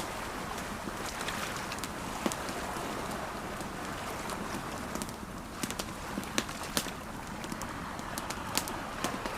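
Campfire crackling with sharp pops over the steady wash of sea waves; the pops come more often in the second half.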